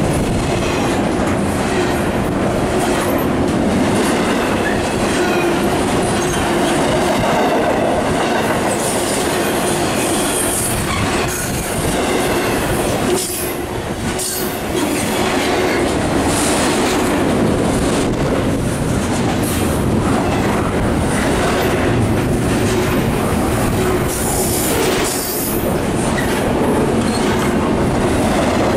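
Freight train cars rolling past at speed, a steady rumble and clatter of wheels over the rail joints, with high-pitched wheel squeal now and then.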